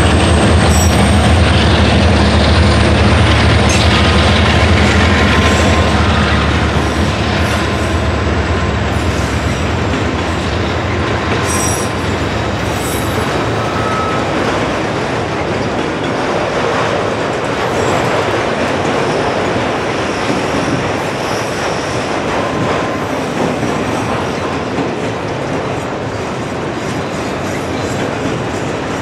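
A long freight train of autorack cars rolls steadily past, its wheels rumbling and clattering on the rails with a few faint wheel squeals. For the first several seconds the low drone of a Caltrain diesel locomotive passing on the near track sits under it, then fades.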